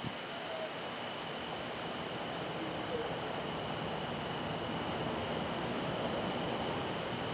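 Low rumble of a train, growing slowly louder, with a steady high-pitched tone over it.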